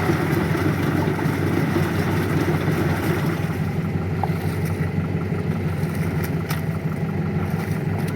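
A farm tractor's engine running steadily, with a few faint clicks in the second half.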